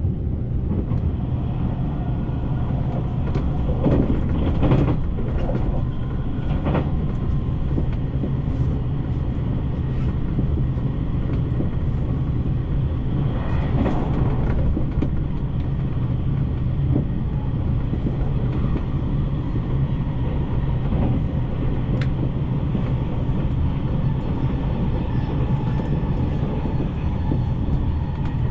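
JR Shikoku 8000 series electric train running at speed: a steady low rumble with scattered clicks from the wheels on the rails.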